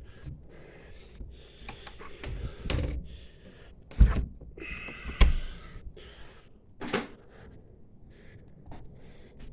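Clunks and knocks of a latch being shut and locked, with rustling between them. The two loudest knocks come about four and five seconds in, and another comes near seven seconds.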